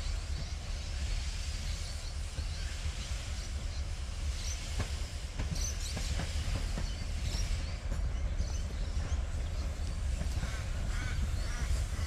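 Locomotive in a railway yard running with a low, steady rumble, with scattered short high chirps over it.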